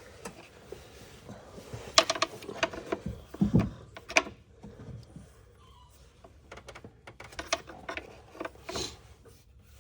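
Scattered clicks, taps and light knocks of hand tools and plastic engine parts being handled while hoses and connectors are pulled off, with a duller thump about three and a half seconds in.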